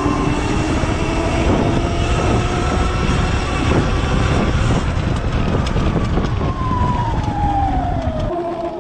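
Sur-Ron Light Bee X electric dirt bike under way. The motor whine rises slowly in pitch as it picks up speed, holds, then falls away in the last couple of seconds as it slows. A heavy rush of wind and tyre noise runs underneath and drops off near the end.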